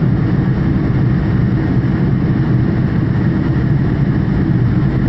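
Steady engine and airflow noise heard inside the cabin of an airliner in flight, a constant low rumble with no change in pitch or level.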